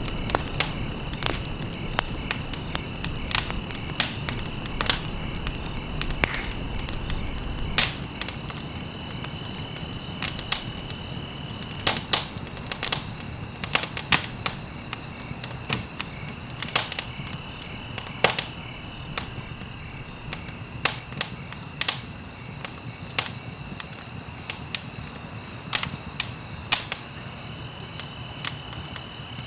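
Wood fire crackling: irregular sharp pops and snaps, several a second at times, over a steady low rush of flame. A faint, steady high-pitched tone runs underneath.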